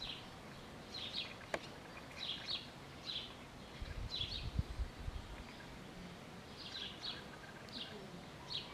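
A small bird chirping over and over, short high chirps about once or twice a second, over steady outdoor background noise. A few low thumps come about four seconds in.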